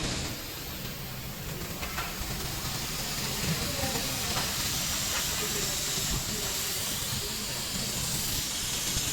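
Compressed air hissing steadily from an air tool, an even hiss with no breaks.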